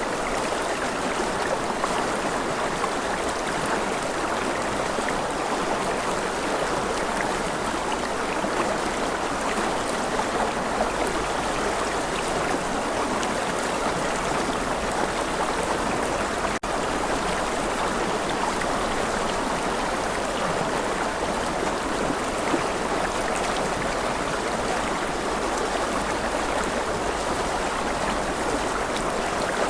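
Running water of a stream, a steady even rush, with a momentary dropout just past halfway.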